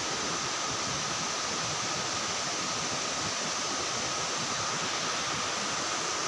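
Steady, even hiss of night-time forest ambience, with a faint high tone held steady through it.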